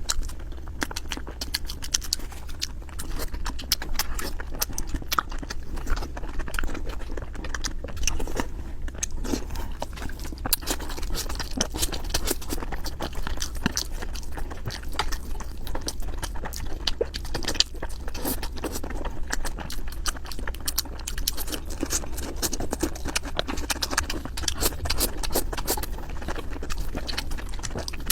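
Close-miked chewing of seafood and instant noodles. Dense, wet, crackly mouth clicks run on steadily without pause.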